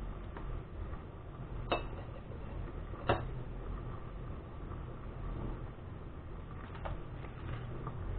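A utensil clinking on a dish twice, about a second and a half apart, then once more faintly near the end, over a low steady hum.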